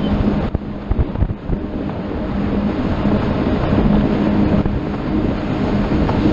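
Boat's engine running steadily under way, a constant low drone, with wind buffeting the microphone in irregular low thumps.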